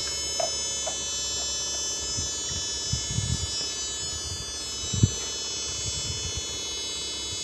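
Switch-mode power-supply regulator of a Chinese TV giving off a steady high-pitched, siren-like squeal, with a few low knocks about 3 and 5 seconds in. The squeal comes with the fault in which the regulator puts out only 7 V on the B+ line instead of its proper voltage.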